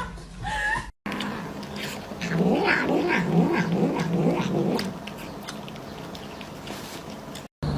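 A cat's long, low yowl that wavers up and down in pitch, from about two seconds in until about five seconds in.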